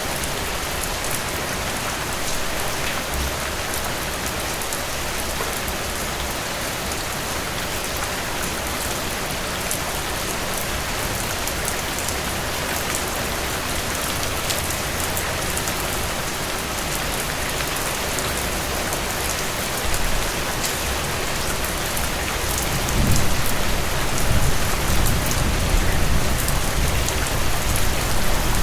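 Heavy rain pouring down in a steady, dense hiss. About three-quarters of the way in, a low rumble of thunder swells up under it and the sound gets louder.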